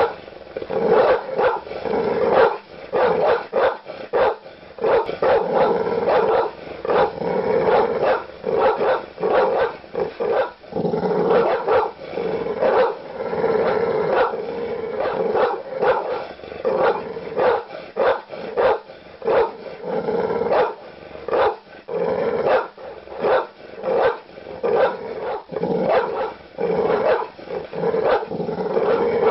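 Large dog barking aggressively in deep, loud woofs, repeated barks coming in quick clusters without letup, with growling between them.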